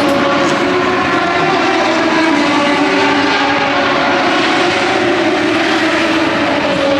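Steady, loud engine drone with several tones held together over a rushing noise, without a clear pass-by rise or fall.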